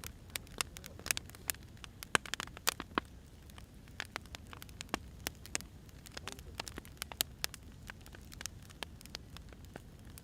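Firewood burning, crackling with irregular sharp pops over a low steady rumble.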